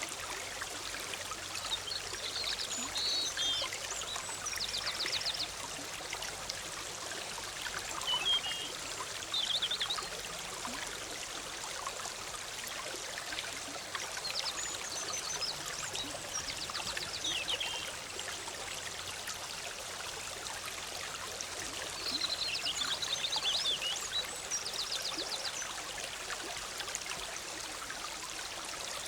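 Forest stream flowing with a steady bubbling rush. Songbirds sing short chirping and trilling phrases over it several times.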